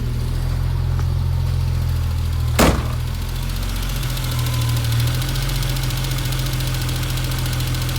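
Alfa Romeo GTV6's V6 engine idling steadily just after a cold start. About two and a half seconds in, one loud thump as the car door shuts.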